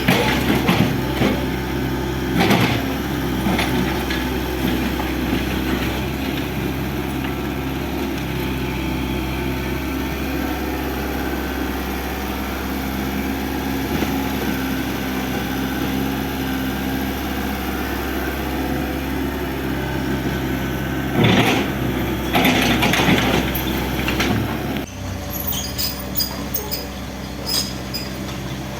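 Excavator engine running steadily, with crashing and knocking of demolition debris about two seconds in and again for a few seconds near the end, after which the engine note drops and sharp ticks follow.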